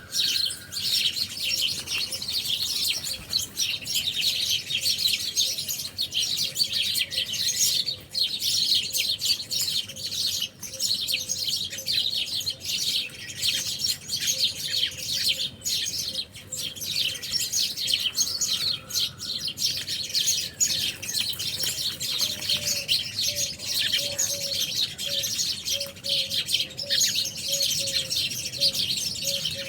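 Many small birds chirping and twittering at once in a dense, unbroken chorus of high notes. A lower repeated note runs beneath it, more plainly in the second half.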